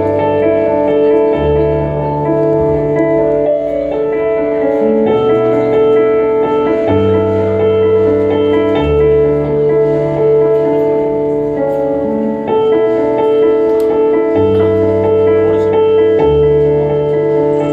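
Live band music: sustained keyboard chords over a bass line that moves to a new note every two seconds or so.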